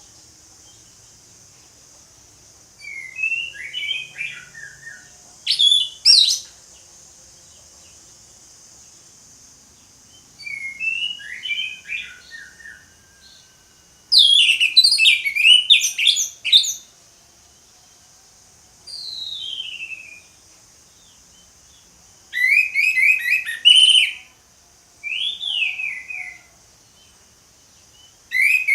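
Orange-headed thrush singing its full, open song (ngeplong). It sings loud phrases of quick whistled notes that rise and fall, each lasting one to three seconds, with short pauses between them and one long falling slur near the middle. A steady high hiss runs beneath the song.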